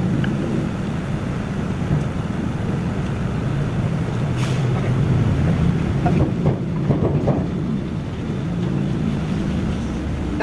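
A steady low mechanical rumble, with a single sharp click about four and a half seconds in and a few brief higher wavering sounds between six and seven and a half seconds.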